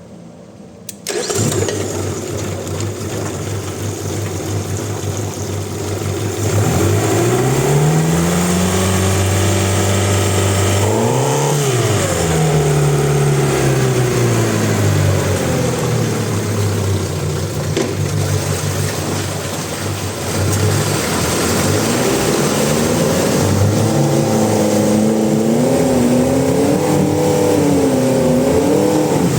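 Honda BF75A four-stroke outboard motor starting about a second in, then running and being revved up and down. Its pitch climbs and drops sharply about halfway through, then rises again and wavers near the end.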